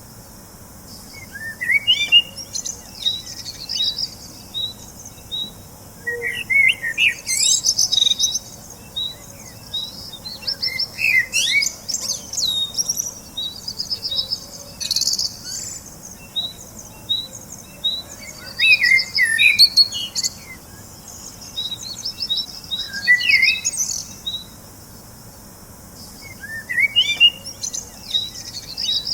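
Small birds chirping and singing: a regular series of short, high chirps runs on underneath, with louder warbling, trilled phrases breaking in every few seconds.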